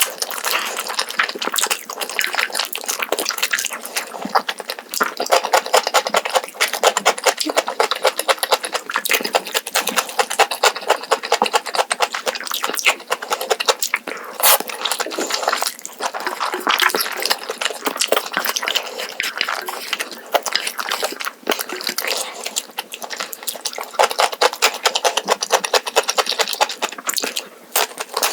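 Close-miked eating sounds: wet slurping and chewing, a rapid run of small mouth clicks and smacks with brief pauses.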